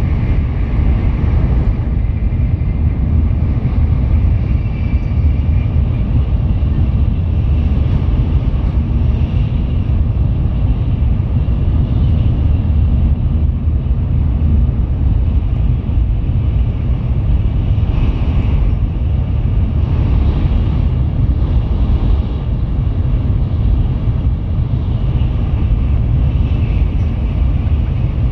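Tokaido Shinkansen train running at speed, heard inside the passenger cabin: a loud, steady low rumble of the car body and running gear with no breaks.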